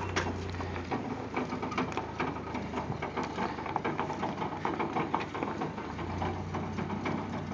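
Mini truck running while it moves: a steady low hum with many small rattles and clicks over it.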